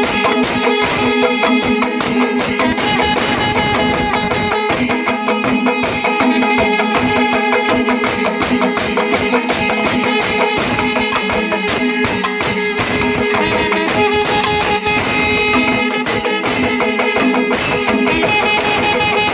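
Kerala temple melam: a traditional ensemble of fast, dense drumming with a steady held pitched tone over it.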